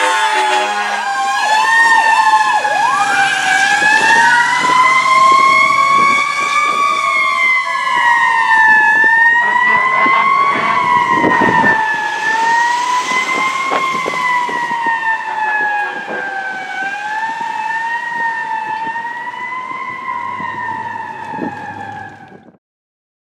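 Fire engine siren wailing, its pitch rising and falling again and again, with a short air horn blast right at the start. The siren fades away near the end.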